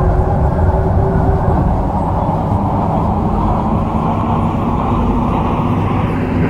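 MTR Kwun Tong line C-Train running between stations: a steady rumble of wheels and running gear, with a faint motor tone that fades about a second and a half in.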